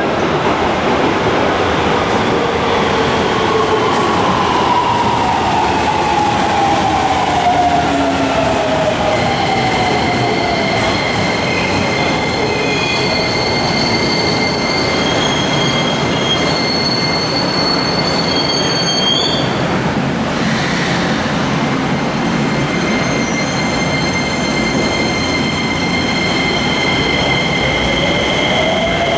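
Toyo IGBT-VVVF traction inverter of a Keisei 3000-series train, in its later pre-update software version, heard over running noise. A whine glides downward over the first ten seconds, several steady high whines then hold, and near the end a new tone starts to rise.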